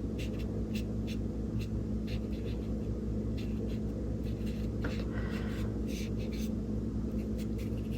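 Paintbrush loaded with acrylic paint stroking across gesso-primed mixed media paper in a series of short scratchy strokes, over a steady low hum.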